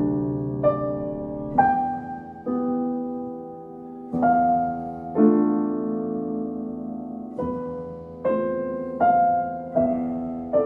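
Slow, gentle solo piano music: single notes and chords struck about every second and left to ring and fade.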